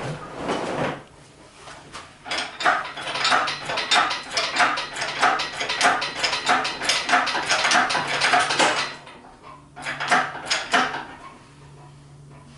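Metal clicking and clinking in a steady rhythm, about three a second, for several seconds, then a pause and three more clicks near the end, over a faint steady low hum.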